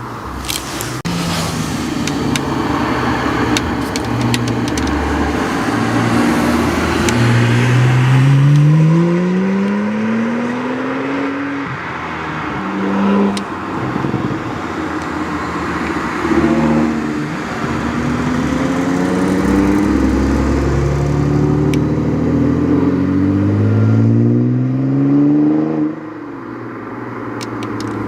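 Sports car engines accelerating hard on a sprint course. The engine note climbs in long rising pulls, with a short blip of revs midway, then drops away abruptly near the end.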